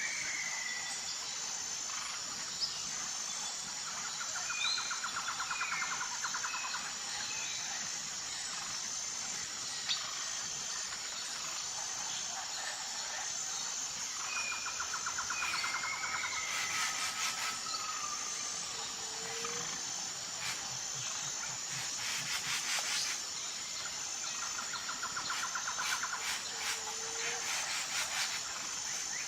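Wild birds chirping and calling, with a rapid trill that comes back about every ten seconds, over a steady high-pitched insect drone.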